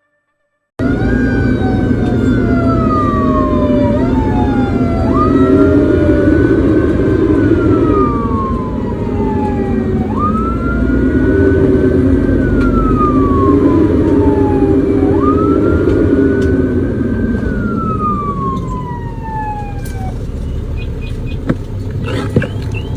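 Emergency-vehicle siren wailing, each cycle rising quickly then falling slowly over about five seconds, repeated four times over a steady low vehicle rumble. It starts suddenly just under a second in and dies away near the end.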